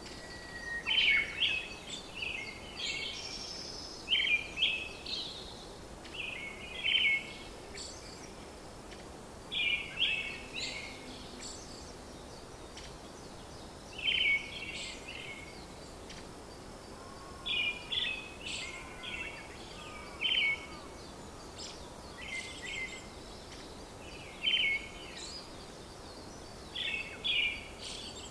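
Birds singing in short, bright chirping phrases that recur every few seconds over a steady background hiss.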